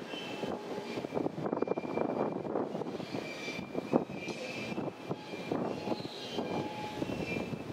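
A train running through the station: steady rumble with a continual clatter of wheels on rail and recurring high-pitched squeals.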